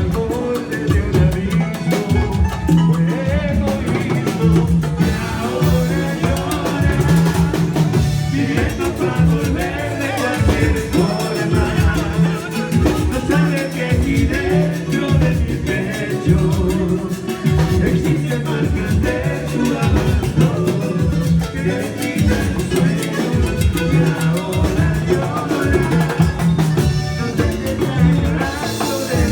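A live band playing an upbeat Latin dance song, with drum kit and percussion keeping a steady beat.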